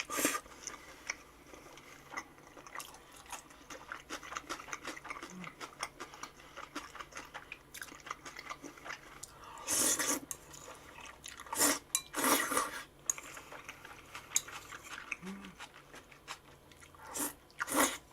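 Close-miked eating: chewing and crunching of food, with light clicks of utensils on dishes and a few louder bursts of noise about ten seconds in, around twelve seconds, and near the end.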